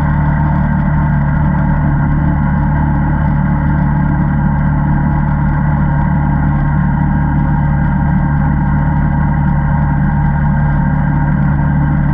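ATV engine running at a steady speed, an even drone with no change in pitch.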